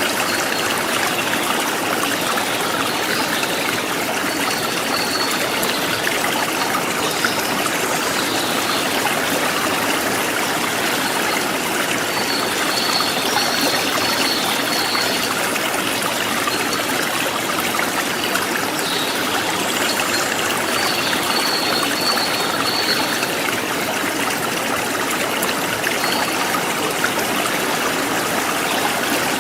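River stream flowing steadily, a continuous rush of water. Faint high-pitched tones come and go several times above it.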